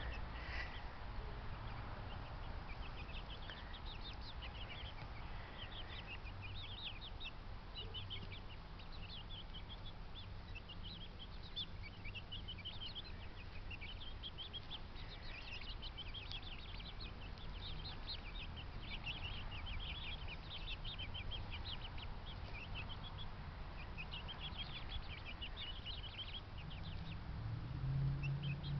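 Birds in a poultry yard chirping continuously, many short high calls overlapping, over a low steady rumble, with a lower call near the end.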